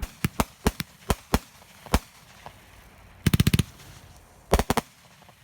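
Fireworks going off in a run of sharp bangs and cracks. Single reports come over the first two seconds, then two rapid, crackling clusters follow, the first a bit past three seconds and the second about a second later.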